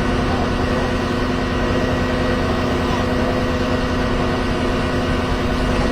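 A vehicle engine idling steadily, a constant low hum with a steady tone over it.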